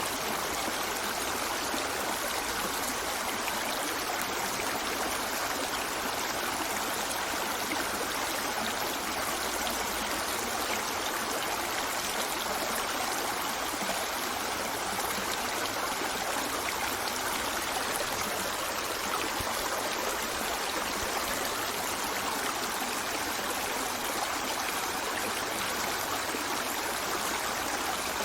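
A stream of water running steadily: an even, continuous rush with no breaks or separate splashes.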